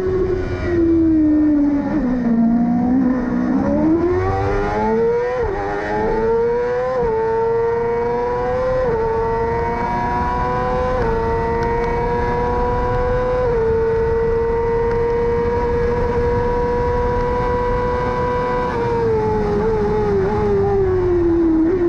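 Yamaha R6 600 cc inline-four race engine at high revs. It drops low for a corner, then climbs in several steps through gear changes and holds high and steady along a straight. Near the end it falls again as the throttle closes.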